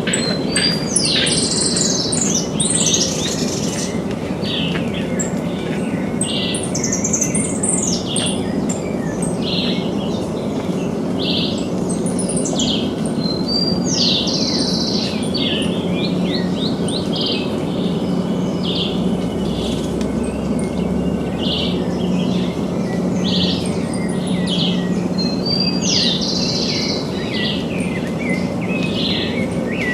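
Several small birds chirping and singing in short, quick phrases, one after another, over a steady low background noise.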